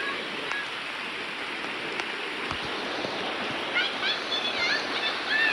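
Shallow creek water rushing steadily over rocks in rain. Short high-pitched calls come in near the end.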